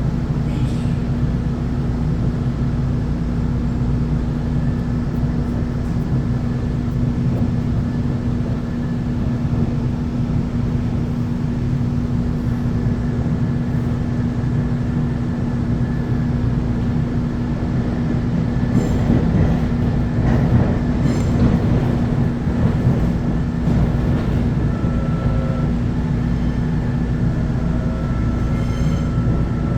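Seoul Subway Line 4 electric train running along the track: a steady rumble with a constant hum, louder for a few seconds past the middle, and whining tones rising in pitch near the end.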